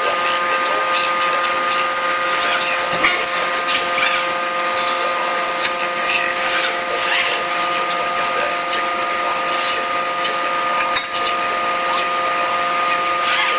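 Forging-shop machinery running with a steady, even whine, with a few short sharp clicks about three, four and eleven seconds in.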